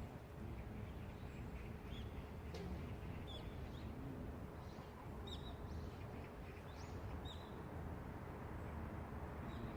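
Small birds chirping in short, high calls scattered over a steady low city hum.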